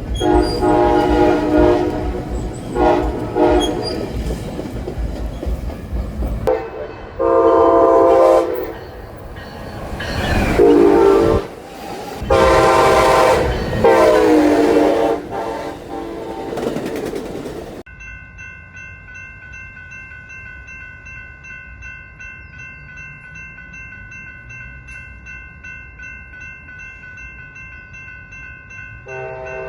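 Locomotive horn on a train sounding a series of loud blasts, each a second or two long, over the rumble of the train on the rails. About two-thirds of the way through, the sound changes suddenly to a quieter steady hum of several high tones, and the horn starts again right at the end.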